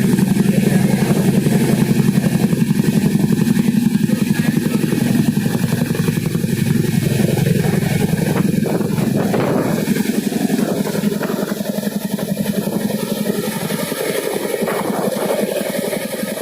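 Boeing CH-47 Chinook tandem-rotor helicopter running, its rotors chopping in a fast steady pulse over the turbine engines, slowly growing quieter.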